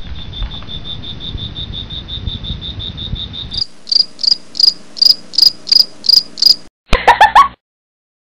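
Cricket-like chirping: a fast, even train of high chirps, about seven a second, over a low rumble, then a switch to slower, higher chirps about three a second. A short burst of a different sound cuts in near the end, then the sound stops.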